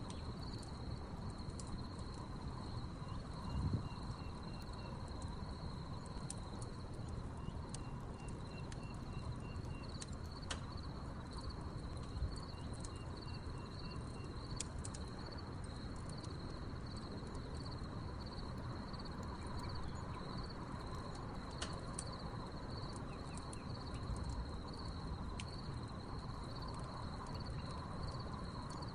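Crickets trilling steadily over a wood fire burning, with sharp crackles and pops from the logs scattered throughout and a thump about four seconds in. A short run of quick chirps comes three times in the first half.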